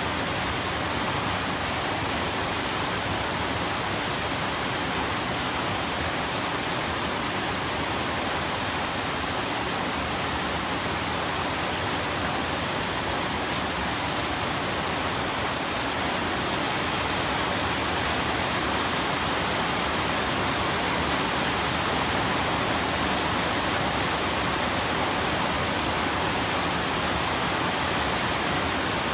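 Steady rain, an even hiss of falling water with no single drops or thunder standing out.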